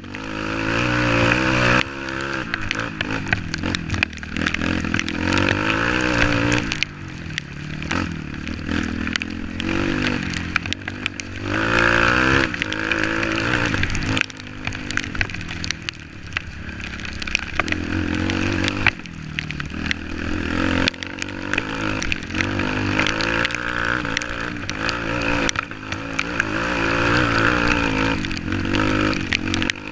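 Off-road motorcycle engine running under load, its revs rising and falling again and again throughout, with no pauses.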